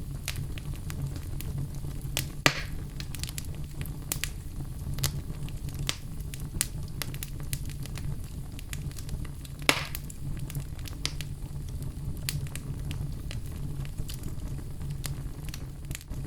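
Wood fire in a fireplace crackling: a steady low rumble of flame under many small sharp crackles, with two louder pops, one about two and a half seconds in and one a little before the middle.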